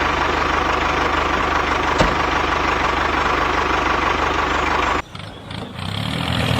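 A small engine running steadily with a fast, even low chugging. About five seconds in it cuts off abruptly, giving way to a quieter hum that rises in pitch and grows louder.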